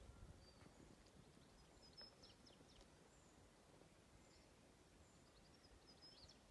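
Near silence, with a few faint bird chirps in two short clusters, about two seconds in and again near the end.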